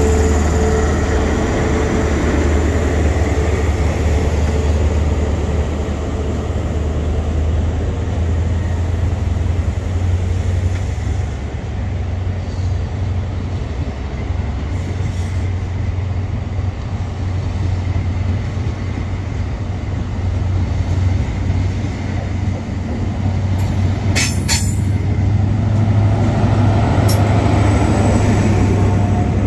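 InterCity 125 High Speed Train departing: the Class 43 diesel power cars' engines run under power with a steady low hum while the Mark 3 coaches' wheels roll past. The sound swells again near the end as the rear power car goes by. A few brief sharp metallic clicks from the wheels come late on.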